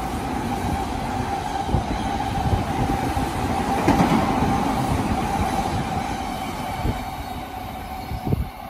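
Odakyu electric commuter train running past close to the platform: a steady rush of wheels and motors with a held tone, and thumps as the wheels cross rail joints. Loudest about four seconds in, fading near the end.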